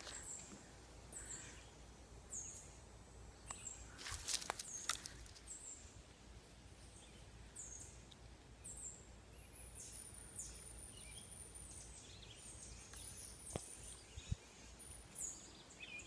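Quiet outdoor ambience with a bird repeating a short, high chirp every second or so. A few faint clicks come about four seconds in and again near the end.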